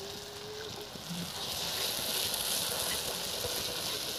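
Wet masala paste poured from a ladle into hot oil with frying onions in a kadhai, sizzling. The sizzle grows louder about a second and a half in.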